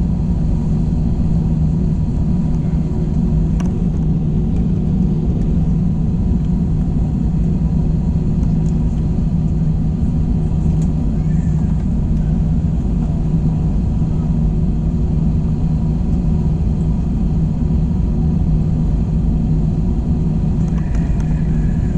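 Steady low rumble and hum inside the cabin of an Airbus A321 on the ground, its engines at idle.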